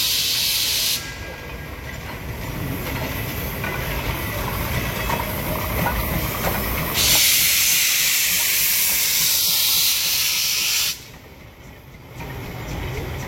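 Low rumble of a commuter train running, with a loud hiss that cuts off abruptly about a second in and switches back on just as suddenly for about four seconds near the middle.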